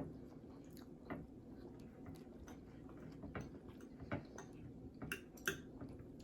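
Quiet chewing: soft, irregular mouth clicks and smacks of people eating, a few a second, with a handful of slightly louder ones.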